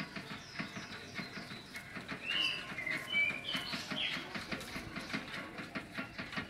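Small birds chirping, a string of short calls spread through the middle, over a scatter of faint clicks and taps.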